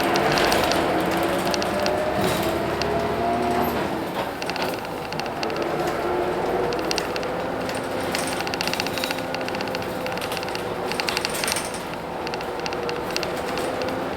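Hino Blue Ribbon City bus's P11C 10.5-litre diesel engine running under way, its pitch rising for the first few seconds, then dipping about four seconds in and holding steadier. Light rattles and clicks from the bus's fittings sound throughout.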